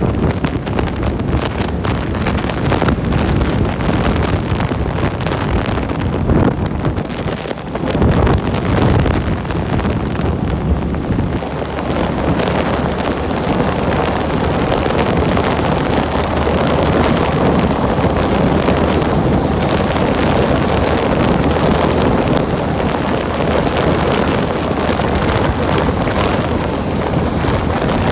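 Wind buffeting the microphone during a bike ride, a steady loud rushing with gusts that dip and swell briefly around seven to eight seconds in.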